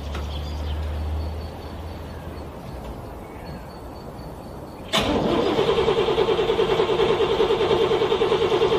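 A car's starter cranking a cold engine over in freezing weather: about five seconds in it starts turning over with a steady, rhythmic pulsing and keeps cranking without catching. It is the cold engine struggling to start.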